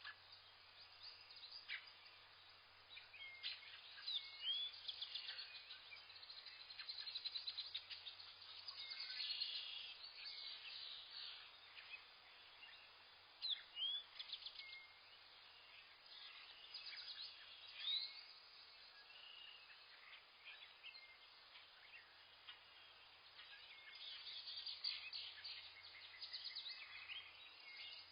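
Small songbirds chirping and twittering, many short high calls and quick rising notes overlapping, in busier bursts with thinner stretches between.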